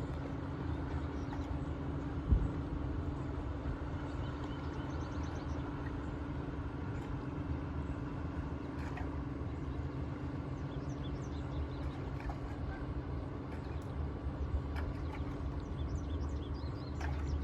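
Steady low engine hum, with a single thump about two seconds in.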